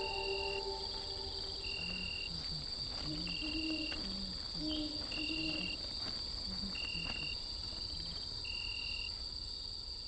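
Crickets chirping: a steady high trill, with a shorter chirp that repeats about every second and a quarter. A few soft low notes sound through the middle, and the whole fades a little near the end.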